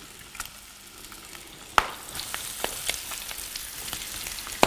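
Cornflake-breaded chicken leg frying in hot clarified butter in a pan: a steady sizzle scattered with sharp crackles and pops of spitting fat. The loudest pop comes about two seconds in, and the sizzle is stronger after it.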